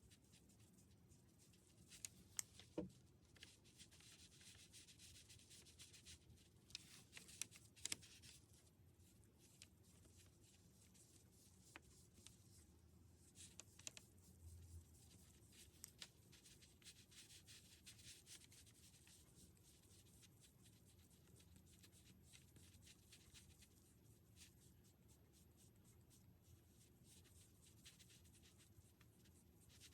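Faint scratching and rubbing of a drawing or painting tool on paper, broken by a few soft clicks and taps.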